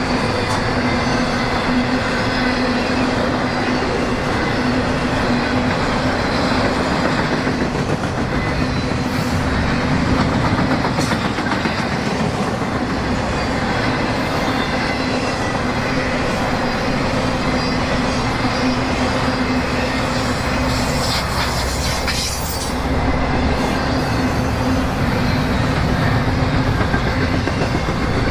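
Freight train rolling past at speed, its wheels clacking over the rail joints with a steady rumble and a faint wheel squeal.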